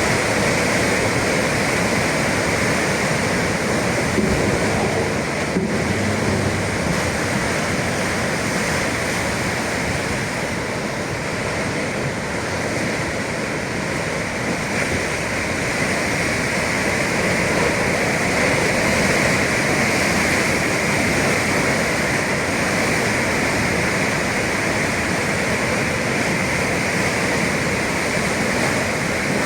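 Sea waves breaking and churning against the shore: a steady rush of surf.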